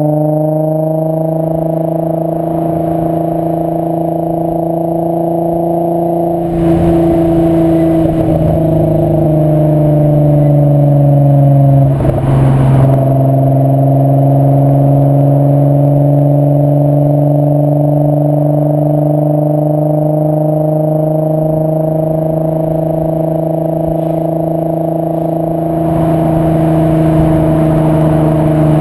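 VW 2.8 VR6 24V (AQP) engine sounding through a Milltek non-resonated exhaust while driving. The engine note holds fairly steady and loud, shifting briefly about 7 and 12 seconds in, with short spells of rougher noise there and again near the end.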